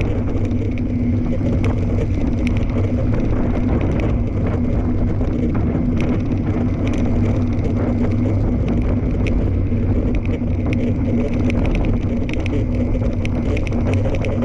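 Fat-tire tandem bike rolling along a trail: a steady tyre hum and rumble with scattered small ticks throughout.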